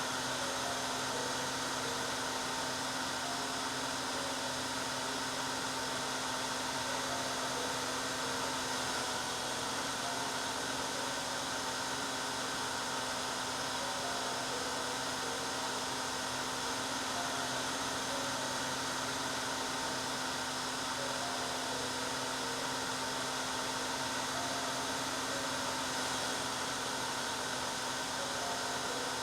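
Hair dryer running steadily: an even whooshing hiss with a constant motor hum underneath, unchanging throughout.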